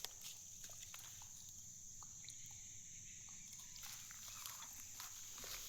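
Faint outdoor ambience: a steady high-pitched hum with scattered small clicks.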